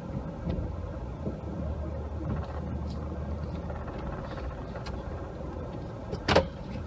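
Pickup truck running at a steady low rumble while plowing snow, with one sharp knock a little over six seconds in.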